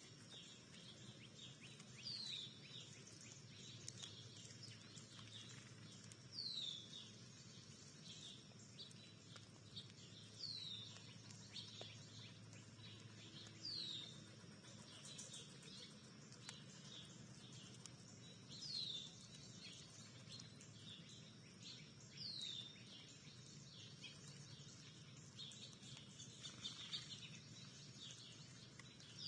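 Wild birds calling faintly: one bird repeats a single short falling note every three to four seconds over scattered soft chips, against a steady low background hum.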